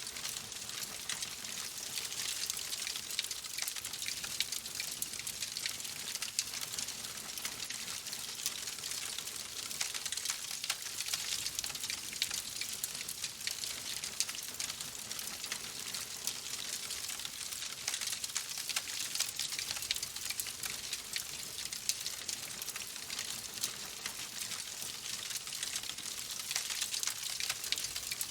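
Fireplace fire crackling, a dense run of small pops and snaps over a steady hiss.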